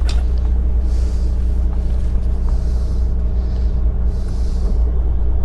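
Boat's inboard engines at idle, a steady low drone of about 600 revs, as the port engine is started alongside the already running starboard engine.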